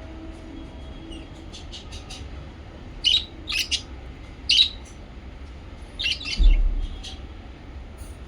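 Small pet parrots giving short, sharp chirps and squawks in several quick clusters, with a low bump about six and a half seconds in.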